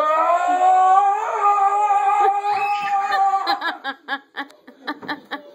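A child's voice in one long high-pitched squeal, held for about three and a half seconds, then breaking into quick bursts of giggling.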